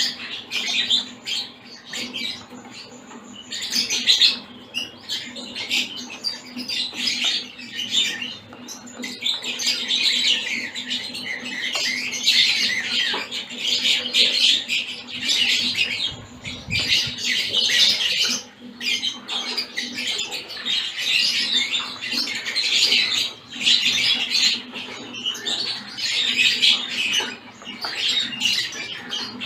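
A flock of mixed small finches (zebra finches, Gouldian finches, society finches and others) chattering and calling all at once: a dense, continuous twittering of short calls.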